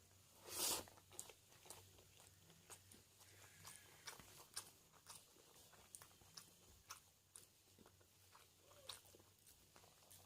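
Close-up eating sounds: one louder crunchy bite about half a second in, then soft, irregular mouth clicks and chewing.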